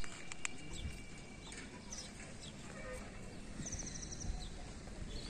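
Birds chirping, with a short fast trill of repeated high notes about three and a half seconds in, over a low steady rumble.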